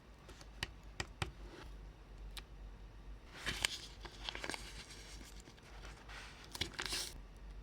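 Light clicks and taps of small parts being handled, then two spells of rustling or crinkling, typical of hands working on a small model train at a bench.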